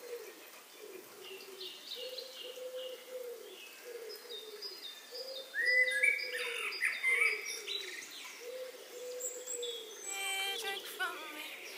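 Birds calling: a low hooting call repeated about once a second, with higher chirps and whistles over it, loudest about six seconds in.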